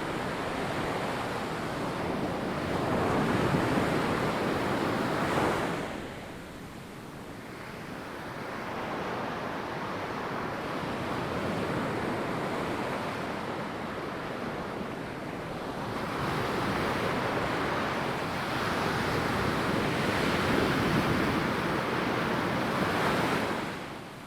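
Ocean waves breaking and washing up a sandy beach, one swell peaking and falling away about six seconds in, then a longer build that drops off near the end.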